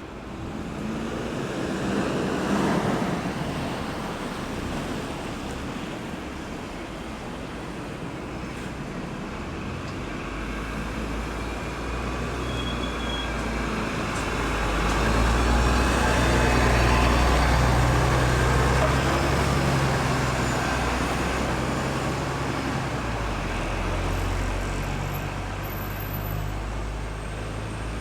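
Road traffic going by. One vehicle passes a couple of seconds in; from about a third of the way through, a deeper engine drone builds to its loudest just past halfway, then slowly eases.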